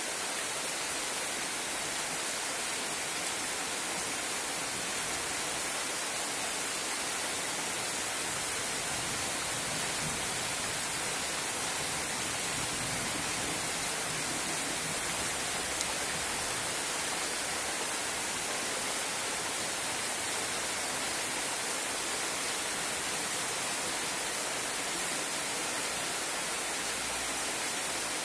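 Heavy tropical rain pouring steadily onto a pond and the surrounding foliage: an even, dense hiss that never lets up.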